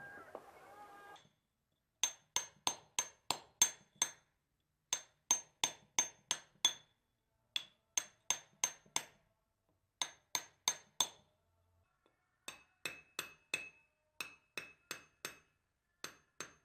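Hammer tapping on a chisel, carving stone: runs of five or six sharp blows about three a second, each with a short metallic ring, with brief pauses between the runs.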